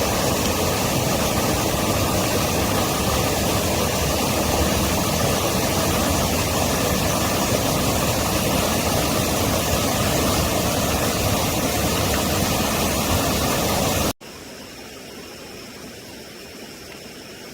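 Steady heavy rain, an even, loud hiss. About fourteen seconds in it cuts to a much quieter, steady hiss.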